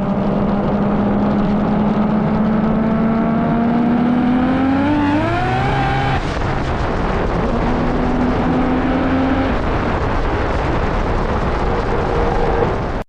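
Toyota A90 Supra with an AWE exhaust accelerating: the engine note climbs steadily for about six seconds, then drops suddenly, as at a gear change. Rougher exhaust noise follows.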